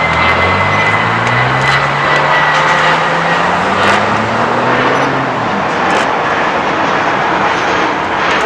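Spirit Airlines Airbus A320-family jet's engines at takeoff power, a loud steady roar. A low drone rises in pitch through about the first five seconds, then fades out.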